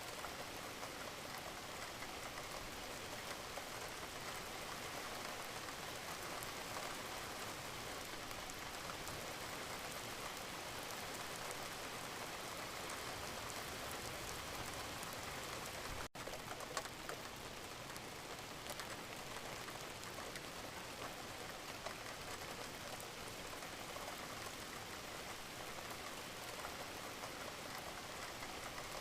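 Wood fire crackling in a fireplace: a steady hiss dotted with many small pops. There is a brief break in the sound a little past halfway, followed by a sharper pop.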